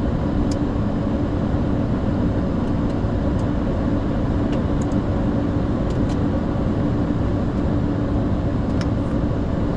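Steady flight-deck noise of a Boeing 747-400 Freighter taxiing after landing: engines at idle and cockpit airflow, with a constant hum and a few faint clicks.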